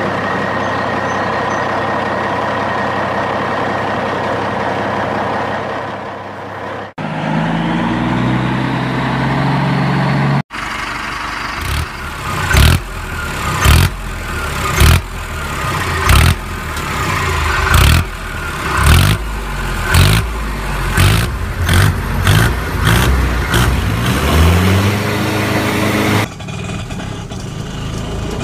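Vehicle engine sounds: a steady running engine, cut off abruptly, then an engine revving up in rising pitch, followed by a long series of loud rev pulses about once a second and a final rising rev.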